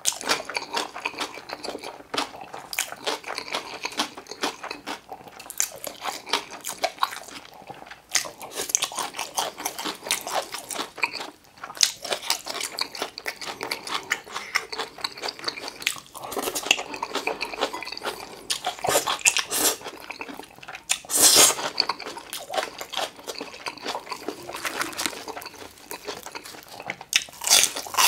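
Close-miked eating sounds: wet chewing and smacking of spicy stir-fried seafood noodles, with crunching from bites of crispy glutinous-rice-battered sweet and sour pork. Dense, irregular mouth clicks throughout, with a louder burst about two-thirds of the way through.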